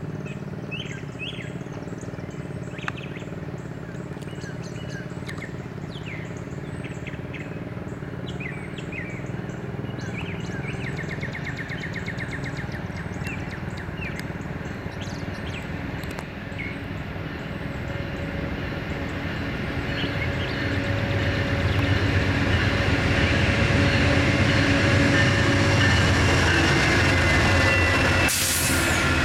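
Amtrak Auto Train's GE P40 diesel locomotives approaching, a steady engine drone that grows louder over the last third, with birds chirping in the first half. A brief burst of noise comes near the end.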